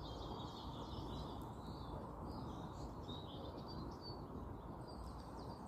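Faint chirps and calls of several birds, short and scattered, over a steady low background noise.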